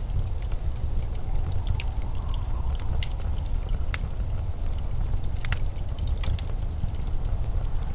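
Steady low rumbling blizzard wind, with scattered sharp crackles and clicks over it, a few each second.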